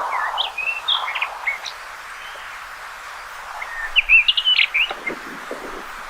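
Rufous-tailed rock thrush singing: two short phrases of quick, varied whistled notes, one at the start and a louder one about four seconds in, over steady background noise.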